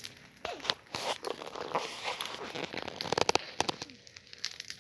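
Bonfire crackling and popping, with a dense run of sharp snaps a little past the middle.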